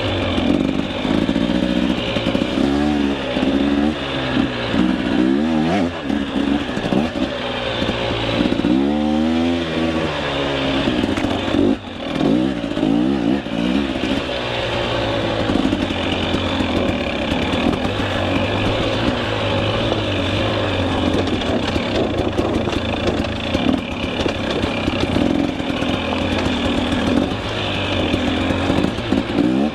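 Two-stroke KTM 300 EXC enduro dirt bike engine revving up and down repeatedly while being ridden off-road, then running more steadily for the second half.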